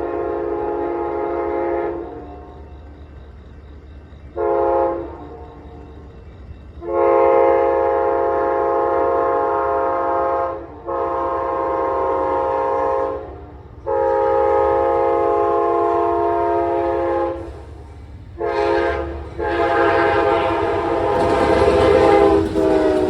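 Amtrak Carolinian locomotive's air horn sounding a chord in a series of long and short blasts as the train approaches, over the low rumble of the train. Near the end the rumble grows loud and the horn drops in pitch as the locomotive passes.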